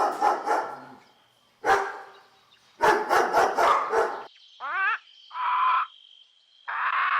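A dog barking in quick volleys of several barks each, about five barks a second. After about four and a half seconds come shorter calls of a different kind, one with a wavering pitch.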